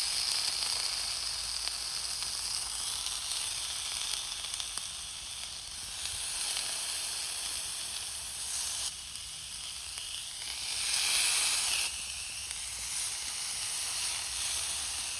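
Steak sizzling in a frying pan with steak juices and a little butter over very low heat: a steady high hiss that grows louder for a second or so about two-thirds of the way through, then drops back suddenly.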